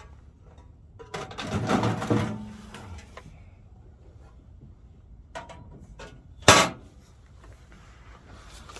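Handling noises: a rattling, scraping sound lasting about a second and a half, then a few light clicks and one sharp knock about six and a half seconds in.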